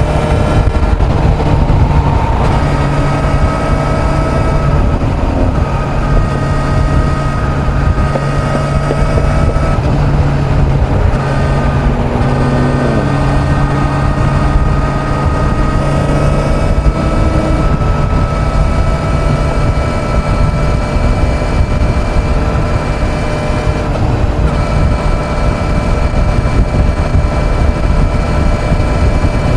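Kawasaki Z900 inline-four engine running steadily at highway cruising speed, with heavy wind rush over the microphone. The engine note shifts briefly about halfway through, then settles again.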